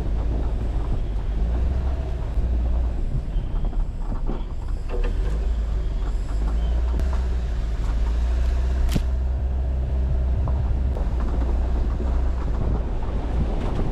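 Jeep Wrangler driving over a rough dirt forest road rutted by rainwater: a steady low engine rumble with occasional knocks and rattles as it crosses the bumps, one sharp knock about nine seconds in.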